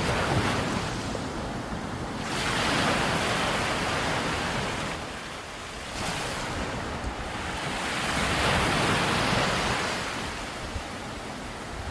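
Sea waves breaking on a beach in strong wind, with wind rumbling on the microphone. The wash of the surf swells louder twice, about three seconds in and again around eight seconds.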